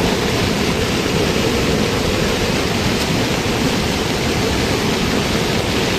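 Floodwater rushing in a swollen stream, a loud, steady, unbroken rush of water.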